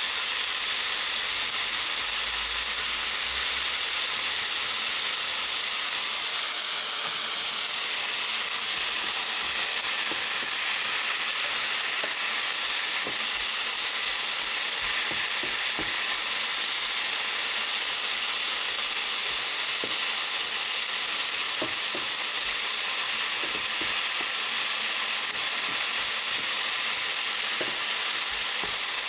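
Food frying steadily in a hot pan, with light, scattered clicks of a utensil stirring it from about midway on.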